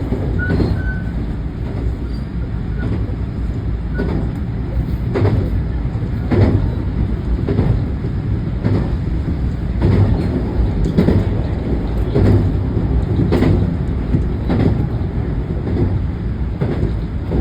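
Train running along the line: a steady rumble of wheels on rail, with the wheels clacking over rail joints about once a second through the second half.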